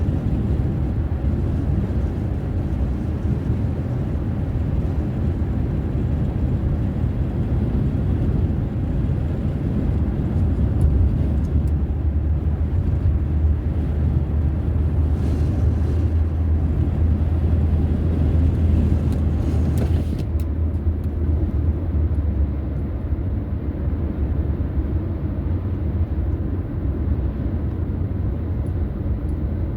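Steady low rumble of road and engine noise from a car being driven, with no sudden events. A faint higher hiss drops away about two-thirds of the way through, leaving only the low rumble.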